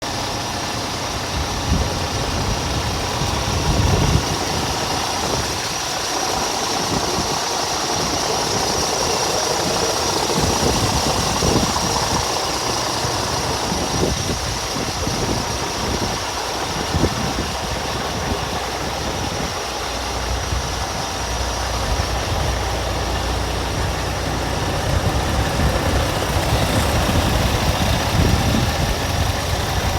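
Diesel engine of a 2012 Scania R440 truck, a 13-litre straight-six, idling steadily, with a low rumble that grows steadier and stronger about two-thirds of the way through.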